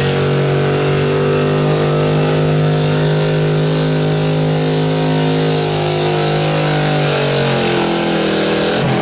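Pulling truck's engine running hard at high, steady revs, its pitch sinking over the last few seconds as the revs fall.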